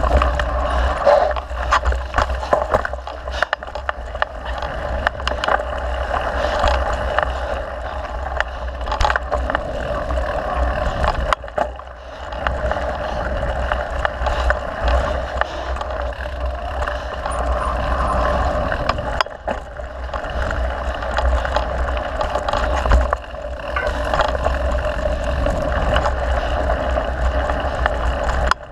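Mountain bike being ridden along a trail, heard through a camera mounted on the rider or bike: a steady rush of wind rumble and tyre noise, broken by frequent clicks and rattles from bumps, easing briefly a couple of times.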